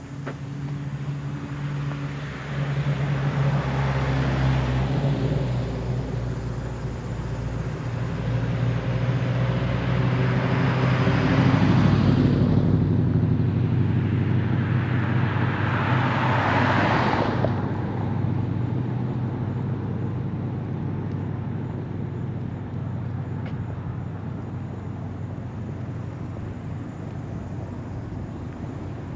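Road traffic: several vehicles passing one after another, the loudest about twelve and seventeen seconds in, over a steady low engine hum.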